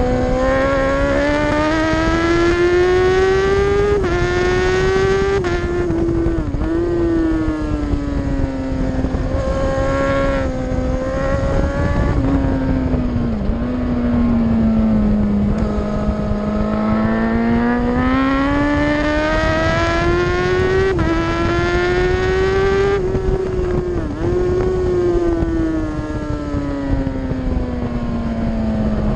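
Racing motorcycle engine at high revs on track, its pitch climbing under acceleration and sagging through corners, with a few brief dips in pitch, over heavy wind rush on the bike-mounted microphone.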